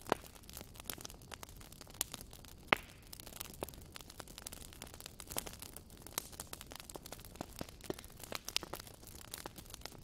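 Wood campfire crackling: irregular sharp pops and snaps over a faint hiss, the loudest snap a little under three seconds in.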